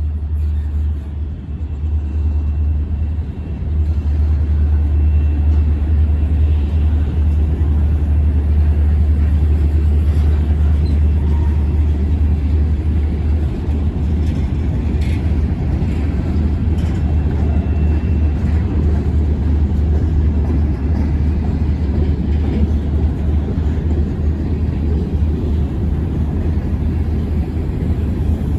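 Freight train rolling by in a steady low rumble that builds over the first few seconds and then holds.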